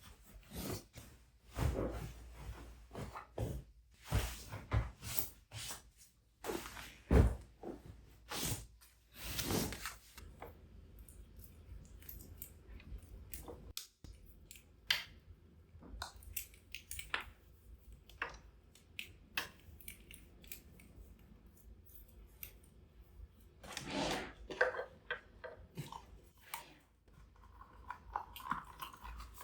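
A run of close, crisp household handling sounds: rustles, soft clicks and light knocks. They come thick for the first ten seconds or so, then thin out to a few sparse clicks, with a busier spell near the end.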